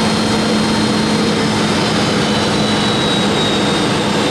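Steady jet noise of a Boeing 717 in flight, heard from the cabin: its rear-mounted Rolls-Royce BR715 turbofans and the rush of airflow, with a steady low hum and a faint high whine that drifts slightly lower near the end.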